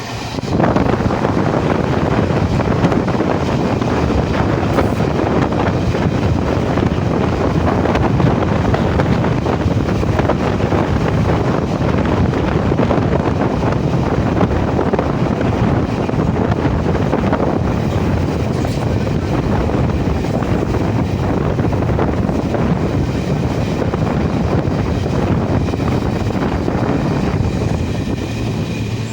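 Train in motion, a loud steady rushing noise that rises suddenly about half a second in and eases slightly near the end.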